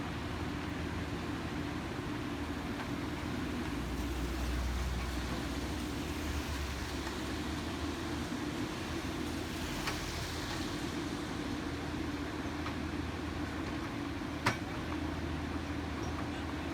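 Construction vehicle engine running steadily with a low hum, swelling briefly a few seconds in, and a single sharp knock about fourteen seconds in.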